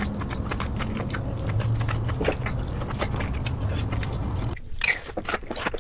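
Close-miked eating: wet mouth clicks, smacks and chewing from biting crab-leg meat dipped in thick sauce, over a low steady hum. The sound drops out briefly just over four and a half seconds in, and similar clicking carries on after.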